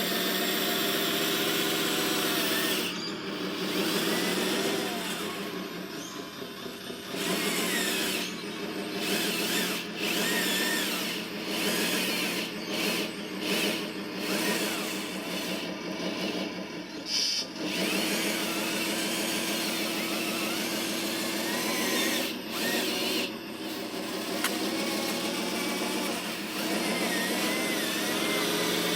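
Small electric motors and gearboxes of radio-controlled construction vehicles whining in stretches that start and stop, their pitch shifting as they run.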